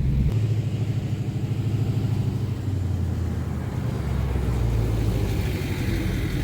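A truck's engine and road noise heard from inside the cab while it tows a loaded trailer: a steady low drone whose pitch shifts at about a third of a second in and again past halfway.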